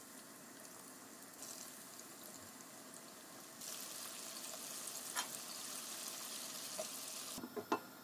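Food sizzling in hot oil in a pan. The sizzle grows louder about three and a half seconds in and cuts off sharply near the end, followed by a few quick sharp clicks.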